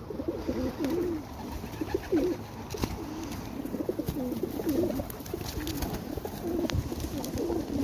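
Several pigeons cooing over and over, low rolling calls overlapping one another, with a few sharp clicks among them.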